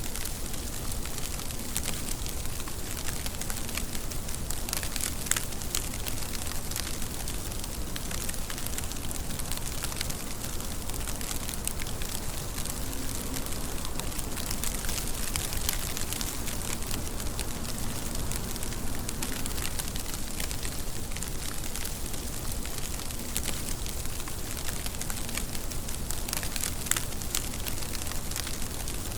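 Steady rain falling, an even hiss sprinkled with many sharp drop ticks.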